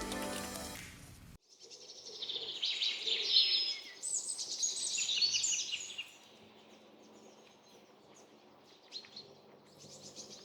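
Background music fading out, then a songbird singing two phrases of rapid high chirps and trills lasting about four seconds.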